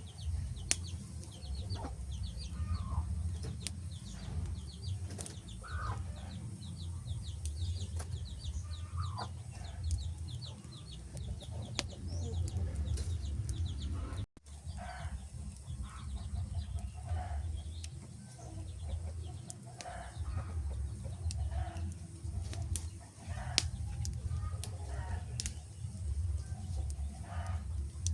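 Wood fire crackling with scattered sharp pops over a low steady rumble, while birds call throughout in short repeated calls and quick chattering runs.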